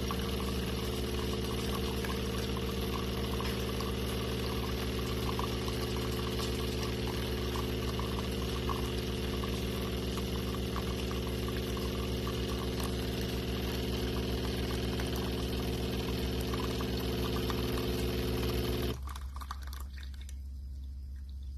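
Coffee machine running with a steady hum as it brews, which stops abruptly about 19 seconds in, leaving a faint low hum.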